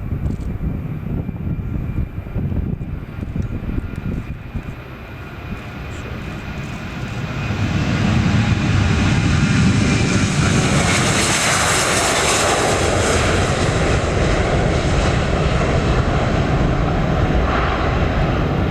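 Boeing 737-800's CFM56 jet engines at takeoff power. A low rumble swells to loud about seven seconds in, with a rising hiss that peaks around twelve seconds in as the jet passes, then stays loud.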